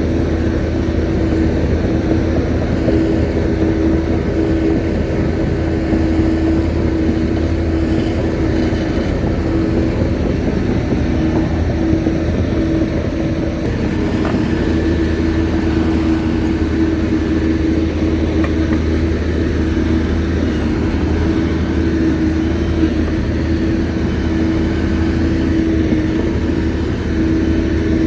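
Shantui bulldozer's diesel engine running steadily under work, a low drone with a strong steady higher tone over it, holding the same pitch throughout.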